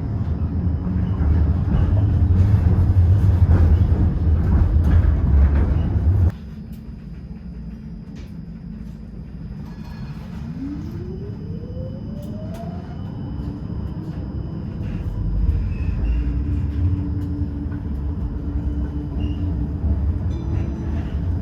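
Amsterdam tram in motion: a loud, low rolling rumble of wheels on the track that drops off suddenly about six seconds in. Later an electric traction-motor whine rises in pitch as the tram accelerates, then settles into a steady hum.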